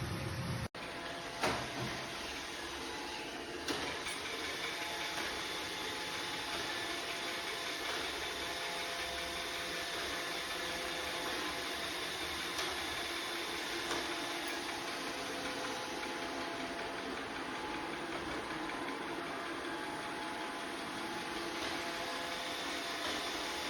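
iRobot Roomba Vac Essential (Q0120) robot vacuum running: a steady whir of its suction motor and brushes. Two short knocks come within the first four seconds.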